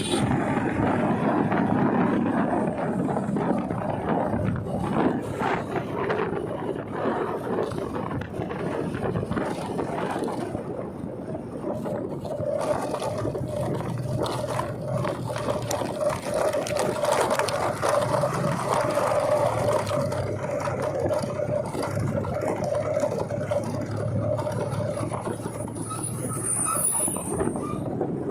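Steady road and wind noise while riding a bike on the road, with a steady hum joining about halfway through and fading near the end.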